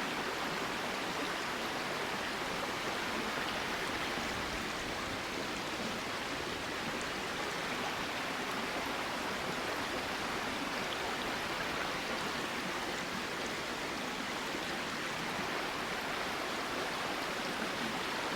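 A flowing river, its water making a steady, even rush.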